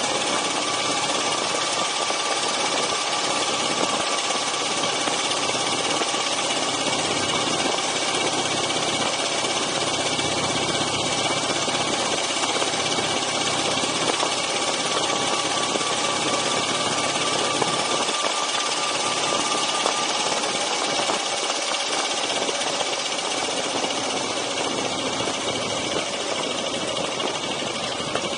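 Dnepr MT9 sidecar motorcycle's flat-twin engine running at a steady cruise, mixed with steady wind and road noise on the bike-mounted microphone.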